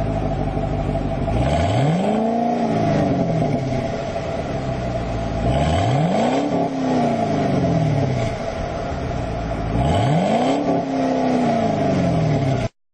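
2010 Camaro SS V8 exhaust, idling and blipped three times, about four seconds apart: each rev rises quickly and falls back to idle. The sound cuts off suddenly near the end.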